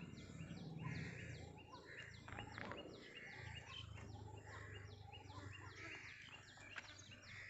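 Faint outdoor ambience with birds calling: a short high chirp repeated evenly about three times a second, and a rougher note about once a second, over a faint steady low hum.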